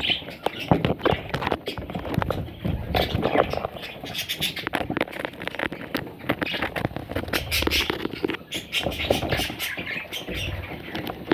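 Budgerigar chicks squeaking and chirping, with frequent scratching and rustling clicks throughout.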